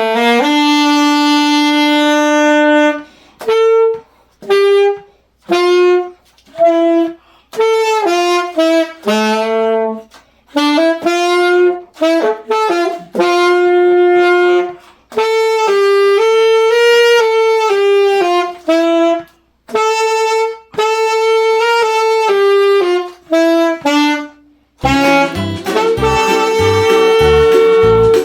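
A solo wind instrument plays a slow melody, one held note at a time, with short breaks between phrases. Near the end, other music with a steady low beat comes in.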